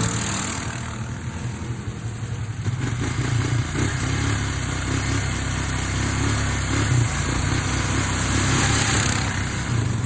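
Four-wheeler (ATV) engine running steadily as it is ridden, a low engine rumble.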